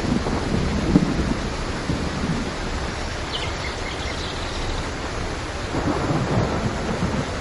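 Steady rain with rolling thunder rumbling underneath, heavier in the first couple of seconds and building again near the end.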